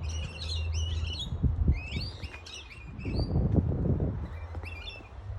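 Small birds chirping in quick sweeping calls, in three bursts: about the first second, around two seconds in, and near the end. A steady low rumble runs under them, with a louder low rustle about three seconds in.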